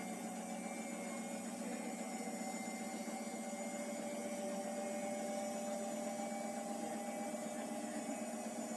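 Hotpoint HE8L493 washing machine running, a steady motor hum with a whine that rises slightly in pitch.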